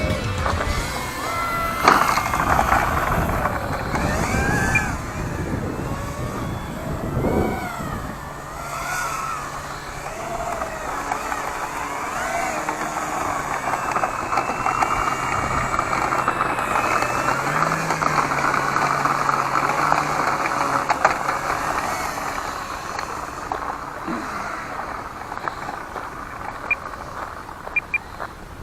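Electric motor of a radio-controlled model plane whining in flight, its pitch wavering up and down as the throttle and distance change, with wind noise on the microphone, loudest in the first several seconds.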